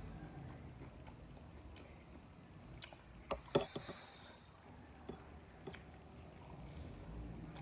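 A few scattered light clicks and knocks over a low steady rumble, with a sharp cluster of them about three and a half seconds in.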